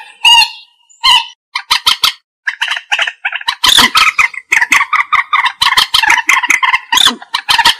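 Common moorhen calling: a series of short, harsh clucking notes. They come in spaced groups at first, then turn into a rapid, nearly unbroken run from about halfway through.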